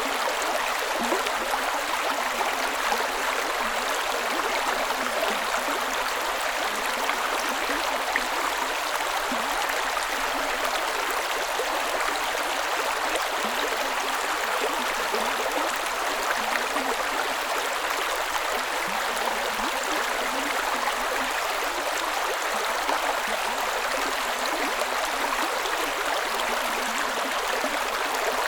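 Creek water running and cascading over rocks: a steady rushing with small gurgles and trickles, no change in strength.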